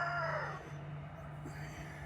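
The tail of a rooster's crow: one long, slowly falling call that fades out about half a second in, over a steady low hum.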